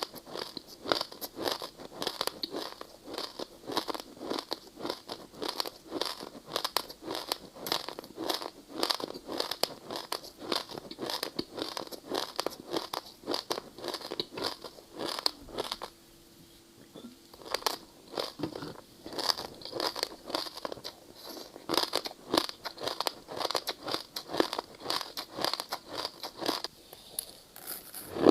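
Ice being bitten and chewed close to the microphone: a rapid run of sharp crunches, breaking off for a second or two just past halfway and then resuming.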